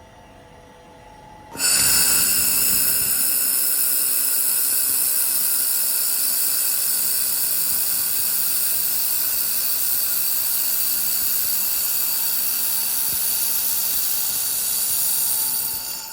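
1500-watt handheld fiber laser welder firing on stainless steel plate: a steady, loud, high-pitched whine with hiss that starts suddenly about a second and a half in and cuts off near the end.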